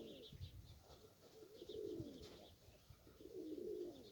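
Domestic pigeons cooing faintly, three drawn-out coos about a second and a half apart, with faint short high chirps.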